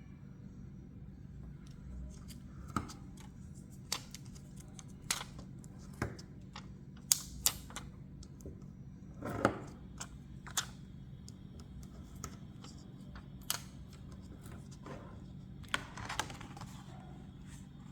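Small plastic buttons clicking and tapping as they are picked up and set down on the picture: about a dozen light, sharp clicks at irregular intervals, over a steady low hum.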